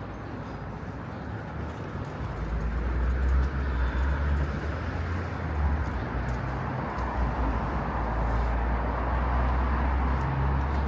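City street traffic: a steady wash of road noise, with a deep low rumble that swells in about two seconds in and stays, as of a heavy vehicle passing close.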